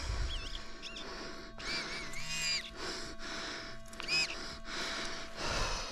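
A bird calling: a few short, wavering high whistled notes, one near the start, a longer one about two seconds in and a brief one about four seconds in.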